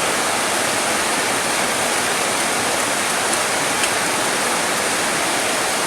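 Steady rain, an even, unbroken hiss of falling water.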